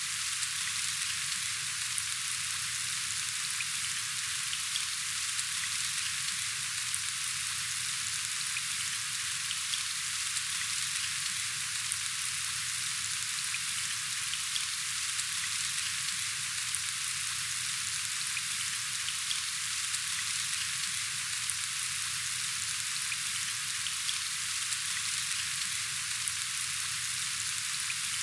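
Steady rain falling: a dense, even hiss dotted with the small ticks of individual drops.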